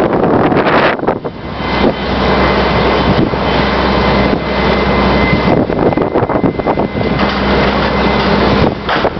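Strong wind buffeting the microphone in gusts, over the steady low hum of a running vehicle engine.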